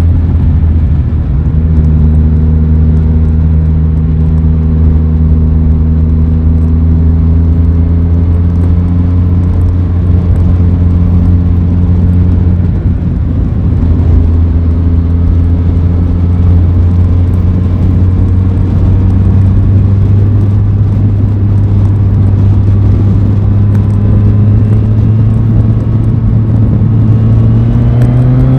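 Aprilia Tuono 660's parallel-twin engine running under way at fairly steady revs, which sag slightly and then hold. The revs start to climb near the end as it accelerates.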